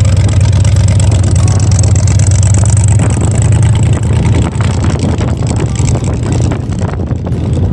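Car engine running, a loud steady low rumble.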